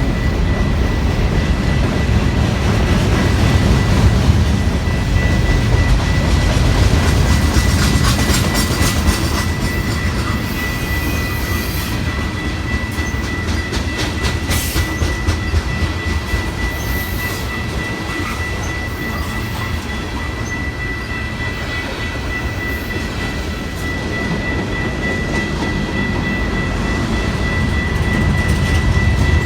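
A train passing, with a loud steady rumble and a string of clicks partway through from the wheels clacking over rail joints. A steady high whine sounds over it.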